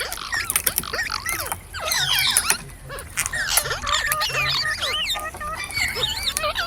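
Parrots chirping and squawking, a rapid run of short calls that sweep up and down in pitch and overlap one another.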